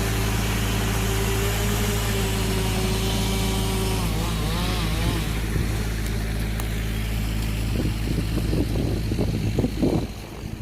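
Small engine running steadily at a constant speed, a continuous hum, with some irregular knocks and rustling near the end.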